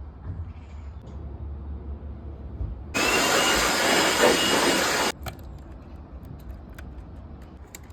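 A power tool runs for about two seconds, starting and stopping abruptly, over a low steady rumble.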